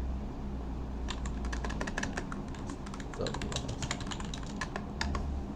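Typing on a computer keyboard: a rapid, irregular run of key clicks starting about a second in, over a low steady hum.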